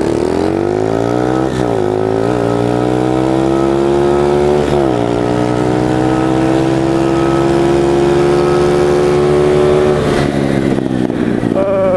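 Small 110cc pit bike engine at full throttle in a drag race, climbing through the gears: the pitch rises and drops briefly at each shift, about a second and a half, two and a half and five seconds in. It then climbs steadily in top gear until the throttle is rolled off about ten seconds in.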